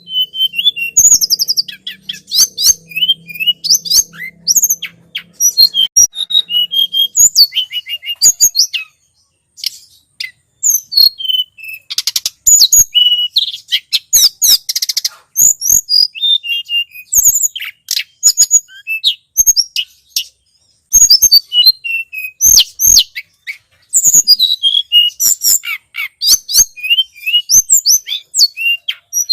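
Loud, rapid high chirps and short sweeping notes of the tledekan gunung, a small Indonesian songbird, played as a bird-lure recording. The song comes in dense runs broken by brief pauses. A faint low hum lies under the first few seconds.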